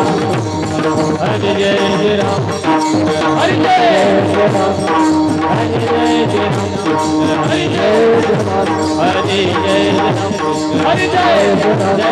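Devotional kirtan music: a hand drum and clashing hand cymbals keep a fast, even beat under a sustained melody, with no clear words sung.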